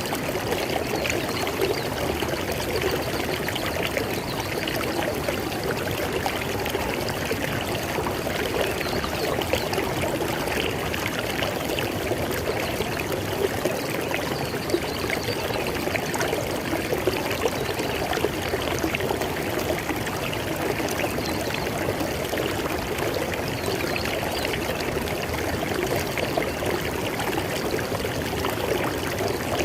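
River water flowing steadily, a continuous rushing babble with fine splashing detail.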